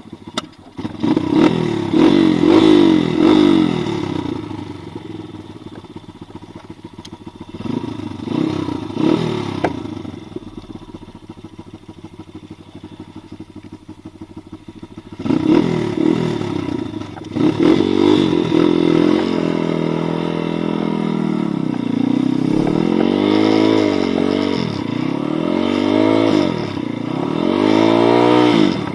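Pit bike's small single-cylinder four-stroke engine revving while riding off-road. There is a burst of revs in the first few seconds and another around eight to ten seconds in, with quieter running between. From about fifteen seconds in it runs loud and steady, repeatedly rising and falling in pitch.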